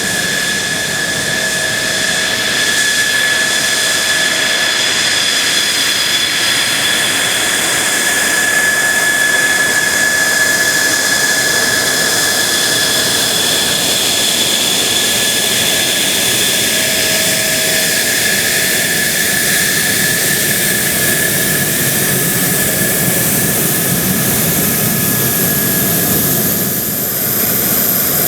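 JASDF F-2B fighter's jet engine running at a steady speed: a constant high whine over a rushing noise, with no rise or fall in pitch. Near the end the tone changes, a higher whine taking over after a brief dip in loudness.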